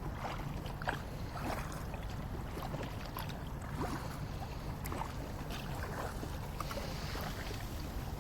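Water splashing and lapping around a sea kayak: small irregular splashes over a steady low rumble of wind and water.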